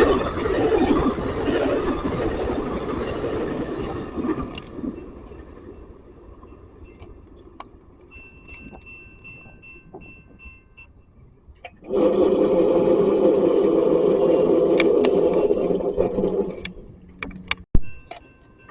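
A train's running noise fades away over the first few seconds. About twelve seconds in, a loud sustained sound starts abruptly, holds for about five seconds and cuts off, and a sharp click follows.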